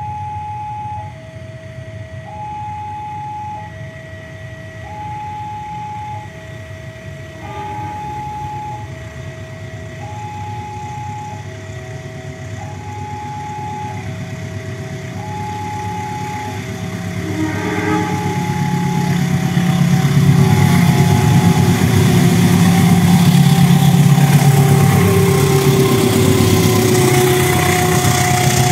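A two-tone electronic warning signal alternates between a higher and a lower note, each held about a second, until about 17 s in. Then a diesel locomotive-hauled passenger train approaches and grows loud, with engine rumble and wheel-on-rail noise as it passes close.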